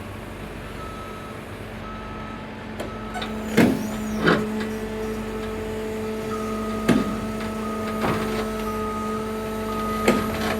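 Cat 325 excavator's diesel engine running steadily, working harder from about four seconds in as the machine tracks. A travel alarm beeps in short repeated tones, and five sharp metal clanks come from the tracks and bucket.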